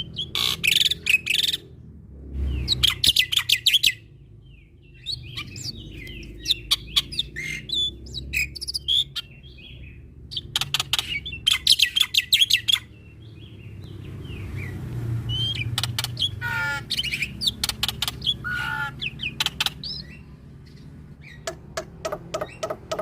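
Black-winged myna (jalak putih) singing a varied song. Bursts of rapid clicking rattles alternate with short chirps and whistled notes, some gliding down, over a steady low background hum.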